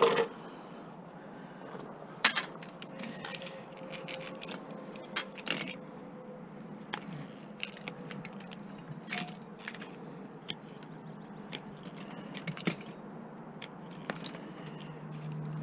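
Scattered clicks, scrapes and light clatter of small plastic and metal parts being handled as a blender is taken apart for its electronics, with a sharper knock about two seconds in.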